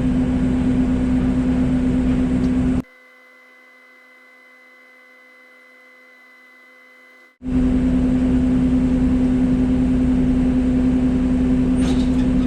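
Heavy diesel engine running steadily with a strong low hum. About three seconds in it cuts out abruptly to a faint hum with a thin high tone, then returns just as suddenly about four and a half seconds later.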